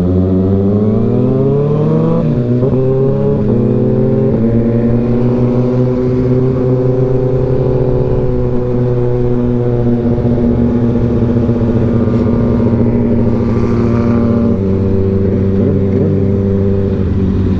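Motorcycle engine pulling up through the gears: it revs up, drops at a shift about two seconds in and climbs again. It then settles into a steady cruise, with a small change in pitch near the end.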